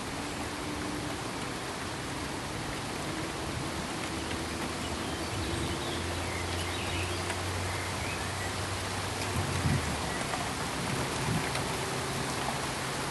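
Steady pink noise: an even, rain-like hiss. A faint low hum runs under it, and two brief low bumps come near the end.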